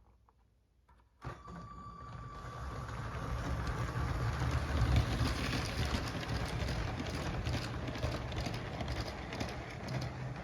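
Motorised LEGO train running on plastic track: a steady rumble of motor and wheels with many small clicks, starting suddenly about a second in and growing louder over the next few seconds.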